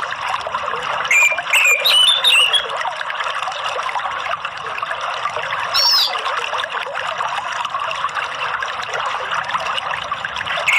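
Running water trickling steadily. A small bird chirps several short notes about a second in, then gives one brief high call about six seconds in.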